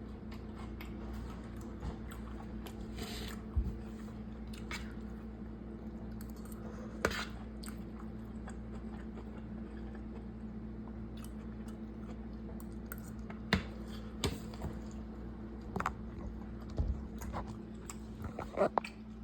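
A person eating at close range: chewing and crunchy bites, with scattered short clicks, over a steady low hum.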